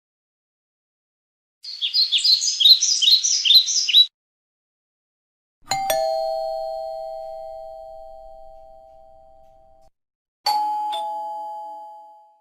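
A quick run of about ten high chirps, like a small bird, lasting a couple of seconds. Then a doorbell chime rings twice: first a struck two-note chime that fades slowly over about four seconds, then a ding-dong, a higher note followed by a lower one, that fades out near the end.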